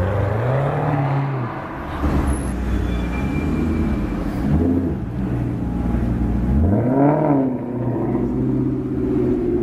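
Maserati engines revving on a city street: one rev rises and falls in the first second and a half, short blips come around four and a half seconds, and a sharper rev rises and falls around seven seconds. Between the revs the engines run steadily.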